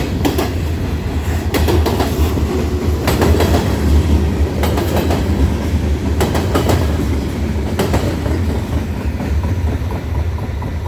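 Railroad cars of a train rolling past, their wheels clicking over the rail joints in pairs about every second and a half, over a steady low rumble.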